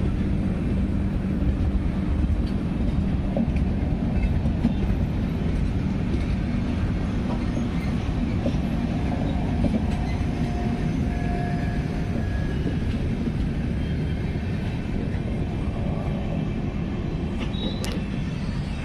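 Howrah Mail express train running slowly along the track: a steady rumble of wheels on rails that eases slightly near the end.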